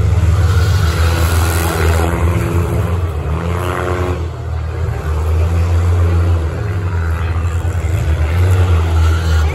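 Several demolition derby cars' engines running loud and rough together in the arena, with one engine revving up about three and a half seconds in.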